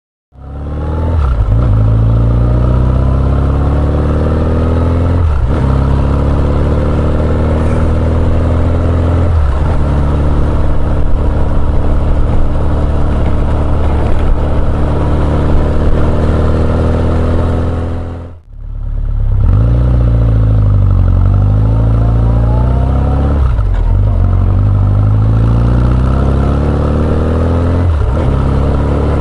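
Honda CB1100EX's air-cooled inline-four through an R's Gear Wyvern Classic aftermarket exhaust, accelerating through the gears. The note climbs and dips back at each upshift, drops out briefly about two-thirds through, then sinks and climbs again.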